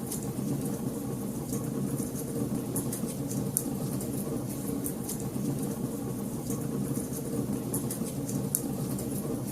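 Wood fire crackling in a fireplace, with frequent sharp pops and snaps at irregular intervals over a steady low rumble.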